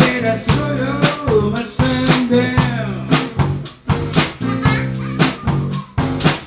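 Live band music: a drum kit keeps a steady beat of about two hits a second under sustained notes, with a melodic line sliding up and down in pitch during the first few seconds.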